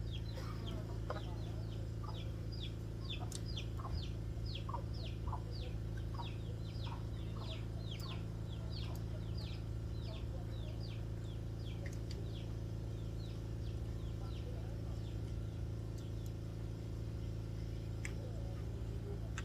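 A bird chirping rapidly, short high chirps that slide downward, about two a second, fading out over the second half, over a steady low hum.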